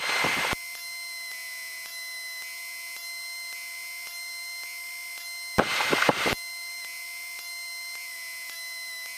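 Aircraft radio audio between transmissions: a steady electronic hiss with a thin high whine and no engine sound. A squelch tail cuts off sharply about half a second in, and a brief burst of static comes around six seconds in as a transmission is keyed without speech.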